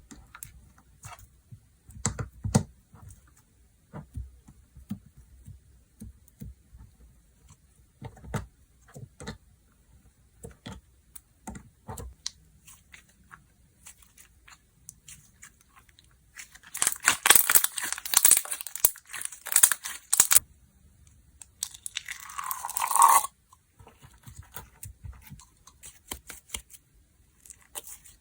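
Slime being played with by hand: scattered small clicks and pops, then about 17 s in a few seconds of dense crackling as it is stretched and torn apart. A second, shorter burst about 22 s in falls in pitch and cuts off suddenly.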